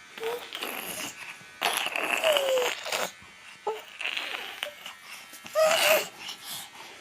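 A baby vocalizing: a few short breathy squeals and coos, one sliding down in pitch about two seconds in and another near the end.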